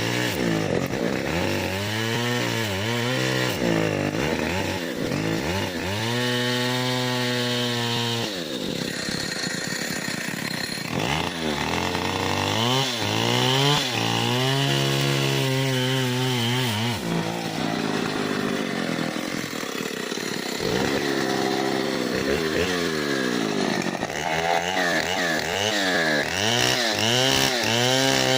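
Stihl 070 two-stroke chainsaw cutting a large mahogany tree, its engine pitch rising and falling again and again as the revs change, holding steady at times.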